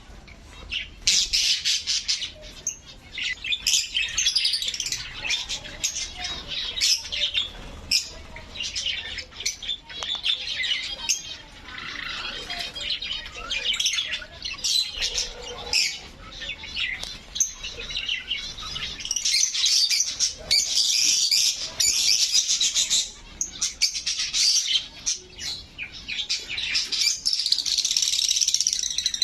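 Many caged birds in an aviary chirping and squawking together in a dense, unbroken morning chorus, at its busiest in two stretches in the second half.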